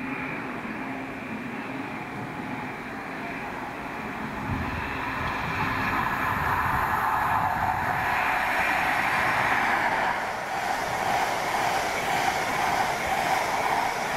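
Train running on the rails, getting louder about halfway through and staying loud, with a higher hiss coming in near the end.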